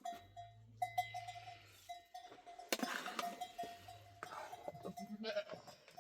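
Sheep and goats bleating with livestock bells, and a few sharp knocks.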